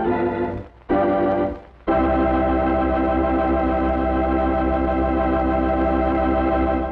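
Closing music played on an organ: two short chords, each cut off, then a long final chord held with a slight wobble.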